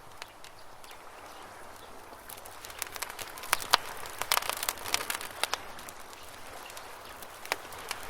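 Wood campfire crackling, with a flurry of sharp pops and snaps about halfway through over a soft steady hiss.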